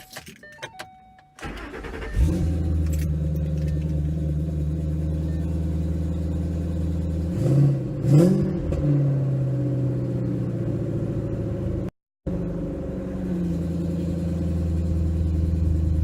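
Ford Mustang V8, with mufflers fitted, cold-started: a few light clicks, the starter cranks briefly and the engine catches, then settles into a steady idle. About a third of the way in it is blipped twice in quick succession, each rev rising and falling back to idle.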